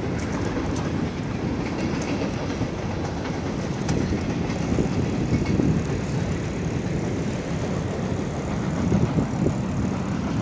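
A fast-moving train passing, a steady rumble of wheels on the rails with a clickety-clack.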